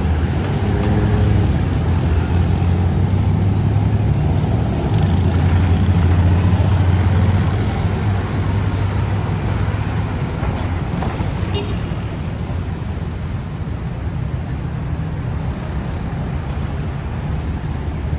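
City street traffic: a steady low rumble of passing cars, swelling for a few seconds about a third of the way in, then settling.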